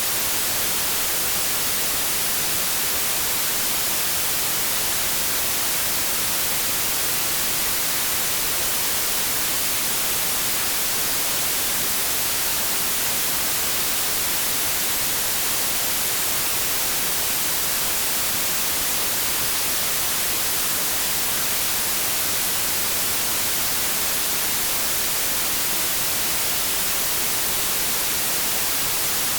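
Continuous white noise: a steady, even hiss, brightest in the treble, with no change in level.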